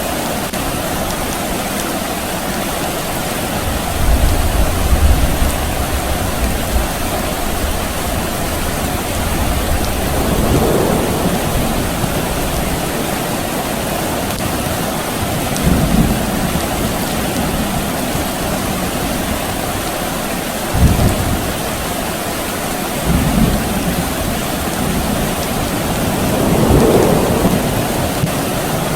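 Steady rain falling, with distant thunder rumbling six times. The rumble about two-thirds of the way through starts sharply.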